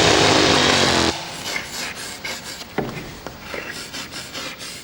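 A loud motorised machine, like a power tool, running with a droning hum and cutting off suddenly about a second in. Irregular scraping and knocking follow.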